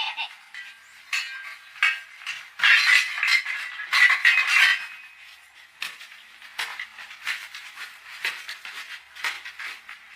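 A quick, irregular series of light clinks, knocks and scrapes, densest and loudest about three to five seconds in, then sparser taps.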